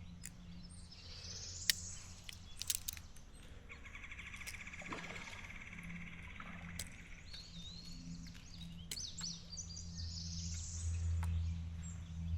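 Wild birds calling along the river: a rising whistled call near the start and again near the end, a buzzy trill of about three seconds in the middle, and scattered chirps, with a few sharp clicks over a low steady hum.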